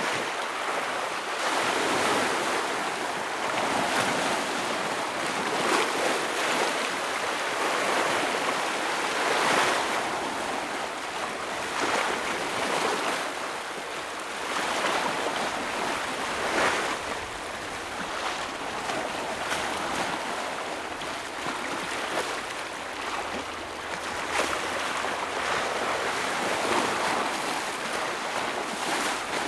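Ocean waves breaking against rocks, a continuous wash of surf that swells and crashes again every few seconds.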